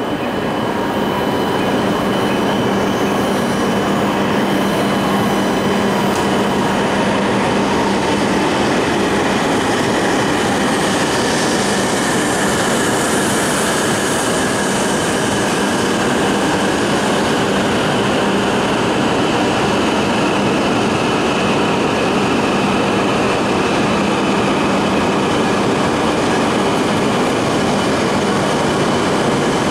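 E7 series Shinkansen train pulling into the platform and slowing to a stop. It gives a steady, loud rush of running noise, with a whine that falls in pitch as the train slows.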